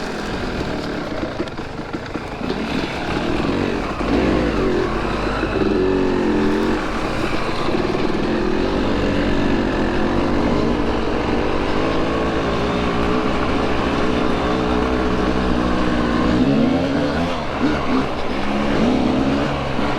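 Two-stroke dirt bike engine being ridden, its pitch rising and falling again and again as the throttle opens and closes.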